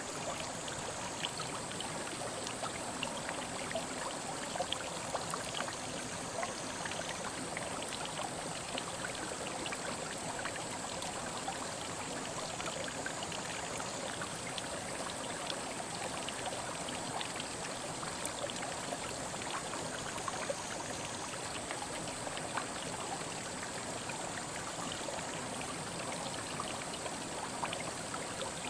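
Mountain headwater stream flowing steadily over rocks, a constant rush of water with many small trickling splashes.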